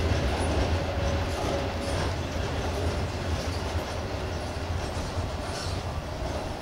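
Freight train hauled by a Class 66 diesel locomotive running past, its wagon wheels rumbling and clattering on the track. The sound slowly gets quieter.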